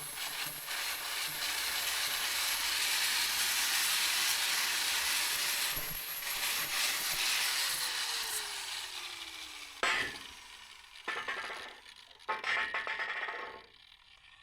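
Angle grinder fitted with a buffing pad, scrubbing rust off welded steel with a steady hissing rasp. About eight seconds in it is switched off, and its whine falls as it spins down. A few knocks follow as it is set down.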